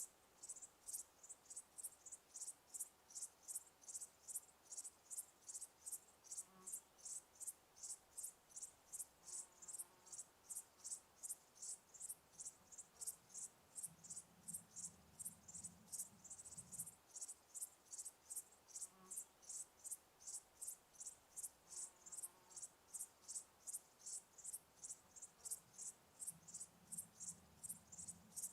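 Cricket chirping steadily, short high chirps in an even rhythm of a few per second.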